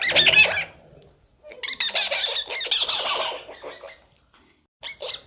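Animal calls: a short, loud, high-pitched cry at the start, a longer, noisier cry from about a second and a half in, and two brief calls near the end.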